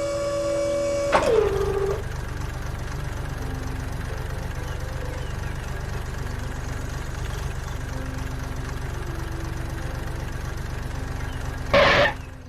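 Engine idling with a steady low putter. It follows a held tone that drops in pitch about a second in, and a short loud burst comes near the end.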